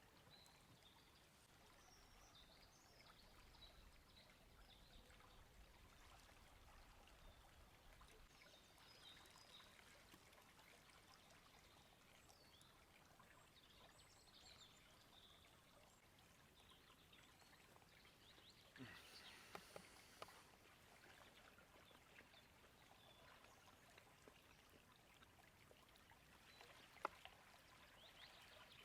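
Faint forest ambience: small birds chirping over a low, steady rush of river water. A brief cluster of light clicks comes about two-thirds of the way through, and a single sharp click near the end.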